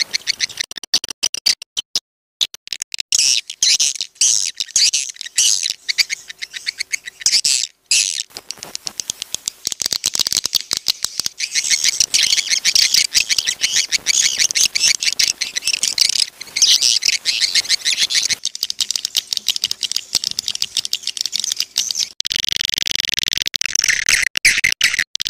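Swiftlets calling: a dense, rapid high-pitched twittering chirp mixed with dry clicks. It is a swiftlet lure-call recording of the kind played to draw swiftlets into a nesting house. Near the end the chirping turns into a steadier, continuous chatter.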